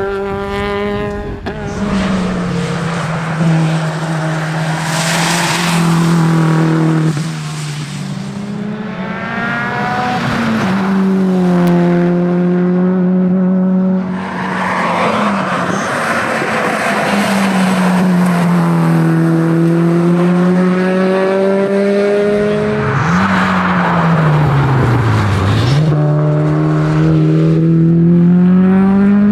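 Subaru WRX STi Spec C's turbocharged flat-four engine driven hard, revving up through the gears and dropping in pitch at each shift, with several deeper dips and quick climbs where it slows and is driven out of corners.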